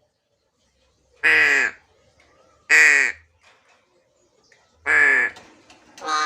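A crow cawing four times, each harsh caw about half a second long, spaced about a second and a half apart.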